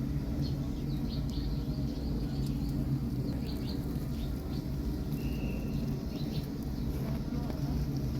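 Small birds chirping in short, high notes, with one brief held whistle about five seconds in, over a steady low hum.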